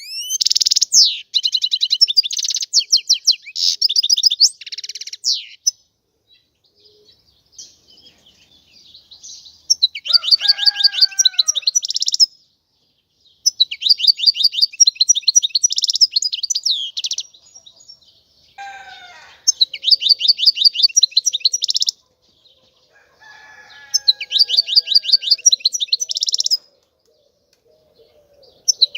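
European goldfinch singing: bursts of rapid, high twittering trills, about five phrases a few seconds long with short pauses between them. Fainter, lower calls sound in some of the gaps.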